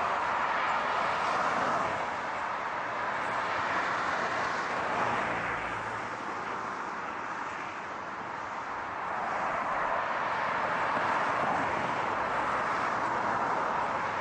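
Car noise: a steady, even wash of tyre and road sound that eases slightly around the middle and swells back again.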